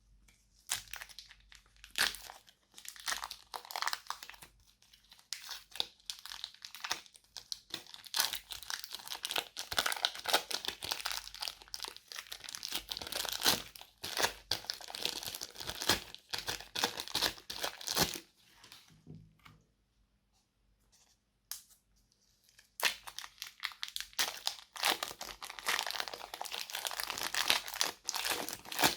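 Slime with mixed-in add-ins being squeezed and stretched by hand, making dense crackling, popping clicks, with a pause of a few seconds about two-thirds of the way through.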